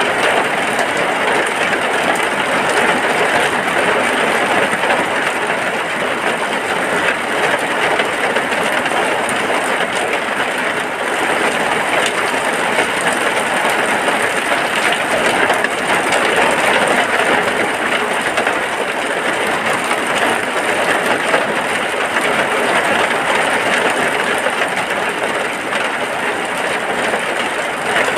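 Steady rain falling on a hut, a loud, even hiss without breaks.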